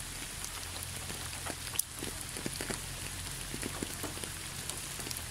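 Steady rain: a soft, even hiss with many scattered drop ticks.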